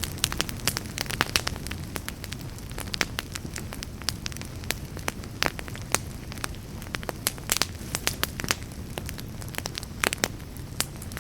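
Fire in a fireplace crackling, with irregular sharp pops over a steady low rumble of flames.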